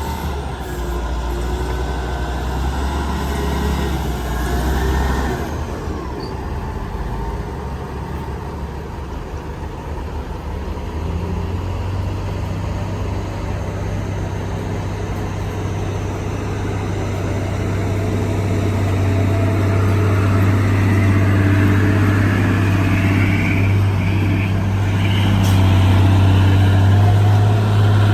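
Heavy diesel earthmoving machinery running with a steady low engine drone. The engine note changes about a third of the way in and grows louder toward the end.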